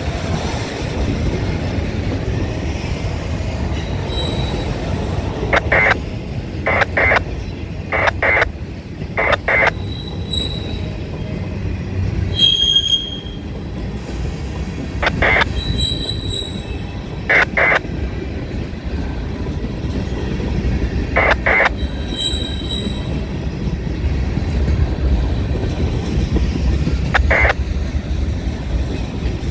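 Loaded freight train of autorack and tank cars rolling past: a steady rumble of steel wheels on rail, broken by sharp clacks, mostly in close pairs, as the wheels roll by, with a few brief high wheel squeals.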